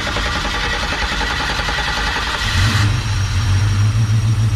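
A 5.3-litre LS V8 in a custom truck, running just after being started. About two and a half seconds in, a strong low steady drone comes in and the higher hiss falls away as the engine settles.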